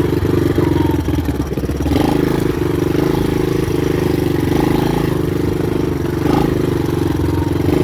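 Honda dirt bike engine running as the bike is ridden, the note shifting a little about two seconds in.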